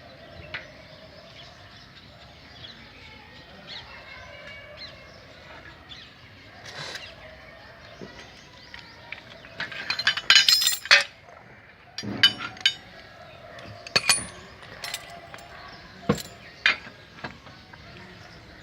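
Metal-on-metal clinks from a wheel spanner on a car's wheel bolts: a quick rattle of clinks about ten seconds in, then half a dozen single sharp clinks a second or so apart.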